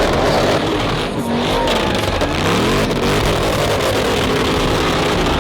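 Drift cars' engines revving hard on track, the pitch rising and falling as the throttle is worked.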